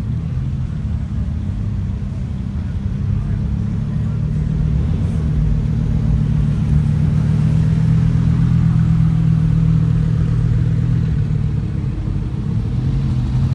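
A car engine running, its low note rising a little in pitch and growing louder from about four seconds in, then easing slightly near the end.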